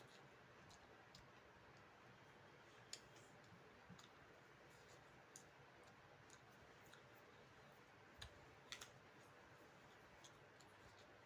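Faint eating sounds: scattered soft clicks of chewing and mouth noises over a steady hiss, with the clearest clicks about three seconds in and a few close together near the end.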